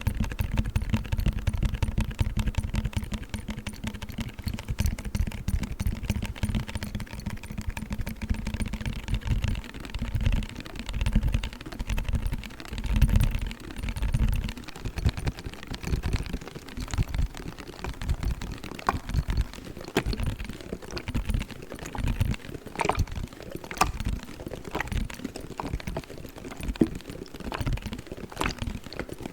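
A cold pack being tapped and handled close to the microphone: a fast, uneven run of small clicks and taps over low thumps, with the clicks sharper in the second half.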